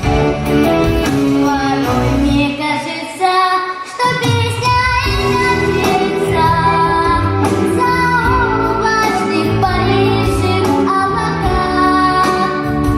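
A girl singing a melody over an instrumental backing track. The bass of the backing drops away briefly about three seconds in, then comes back.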